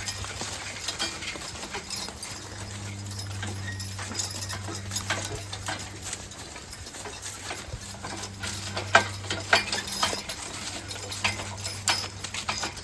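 Team of draft horses walking, their hooves clopping irregularly, with scattered knocks and clicks. A steady low hum runs under it through the middle.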